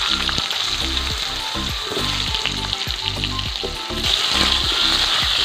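Potato wedges sizzling as they fry in hot oil with cumin seeds in a wok. The sizzle grows louder about four seconds in, as more wedges go into the oil.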